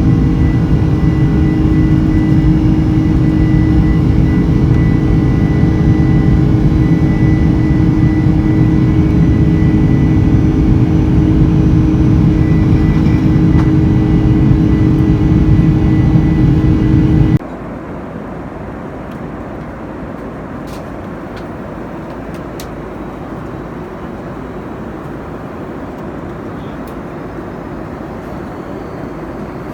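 Boeing 747-400 passenger cabin in the climb: loud, steady engine and airflow noise with a steady whine. About seventeen seconds in it cuts off abruptly to a much quieter, steady cabin hum with a few faint clicks.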